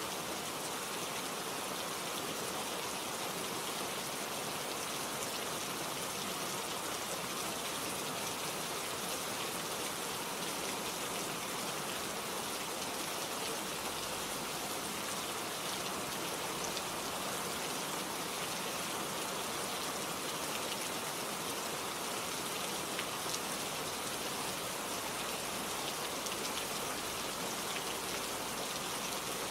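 Steady rain falling, a dense even hiss with many small drop ticks on leaves and surfaces.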